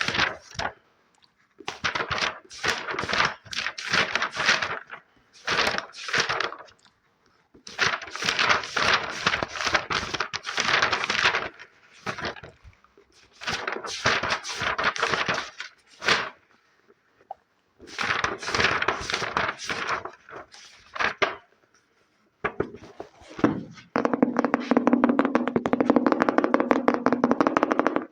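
ASMR triggers: fingers tapping and scratching quickly on objects in short bursts of a second or two, with brief pauses between them. About 24 seconds in, this turns into one continuous run of very fast tapping with a hollow ring.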